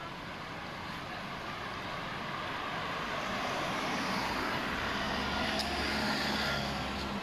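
A motor vehicle passing close by on a street: its engine hum and road noise build over several seconds, peak, then ease off near the end.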